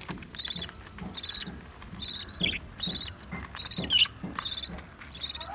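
High, short chirps repeating steadily, a bit more than one a second, each made of quick pulses. About four seconds in, a louder sliding call rises above them.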